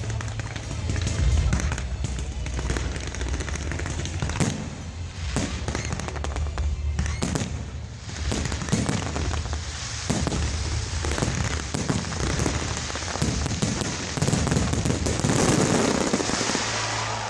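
Fireworks display: a rapid, irregular string of bangs and crackles, thickening into dense crackling near the end.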